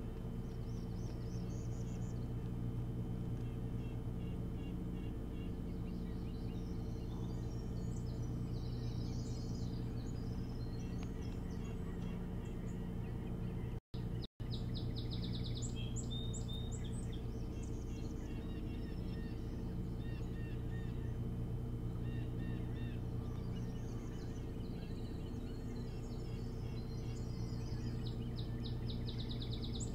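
Birds calling over a steady low hum: scattered high chirps and quick trills of rapid repeated notes, busiest about halfway through and again near the end. The sound cuts out twice for an instant about halfway through.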